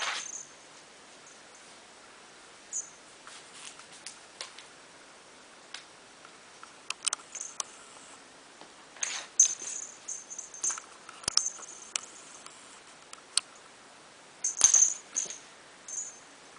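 Scattered light clicks, taps and scratchy rustles of a cat and a raccoon moving about and handling things, with a louder scuffle about fourteen and a half seconds in.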